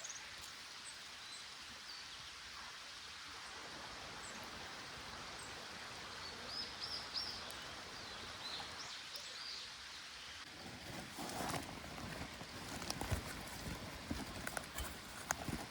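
Steady rushing of a small stream, with short high bird chirps around the middle. From about two-thirds of the way in, a series of sharp clicks and knocks join it.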